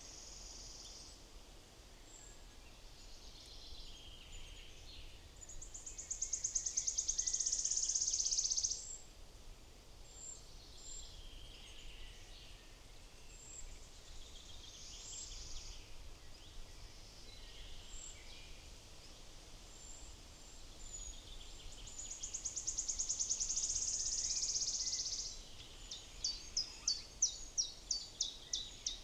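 Small woodland songbirds singing and calling. There are two long, rapid trilled songs of about three seconds each, one a few seconds in and one in the latter half, with scattered short calls between them, and a run of sharp repeated notes near the end.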